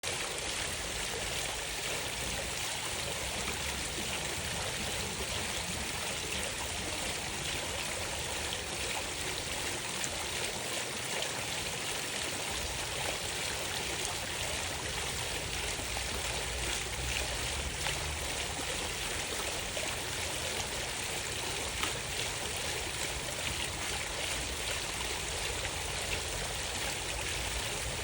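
Steady rush of running water, like a stream, unbroken throughout.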